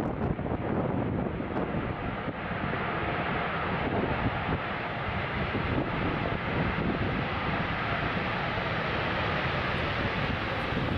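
Boeing 787 Dreamliner's twin turbofan engines during landing: a steady jet rumble with a faint whine over it.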